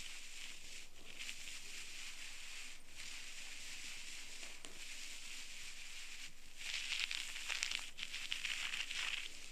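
Ear pick scraping in an ear canal: crackly scratching over a steady hiss, briefly about a second in and then in a longer, louder run from about seven seconds in until near the end.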